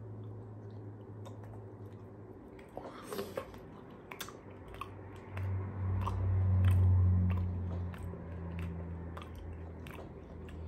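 Two people biting into and chewing soft, chewy banana candies coated in chocolate frosting and sprinkles, with small wet mouth clicks and smacks scattered throughout. A low hummed sound swells for a couple of seconds around the middle.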